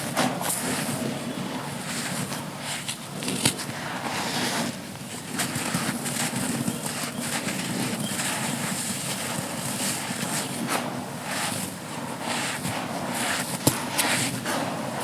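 Dry sand-and-cement clumps being crushed and crumbling: a steady gritty crackle full of small cracks, with a few sharper snaps.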